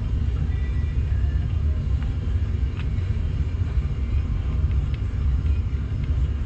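A steady low rumble, with a few faint light clicks around the middle.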